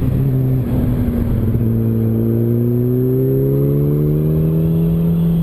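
Yamaha R1 motorcycle's inline-four engine running under the rider, easing briefly about half a second in, then winding up slowly and steadily in pitch as the bike accelerates.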